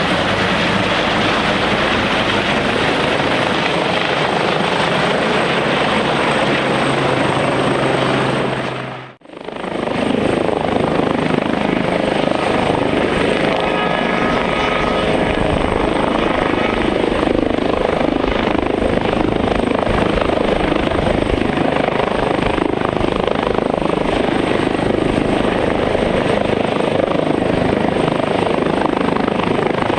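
Airbus H145 helicopter running loudly, its turbine engines and rotor giving a steady, dense beat. The sound drops away sharply for a moment about nine seconds in, then comes straight back.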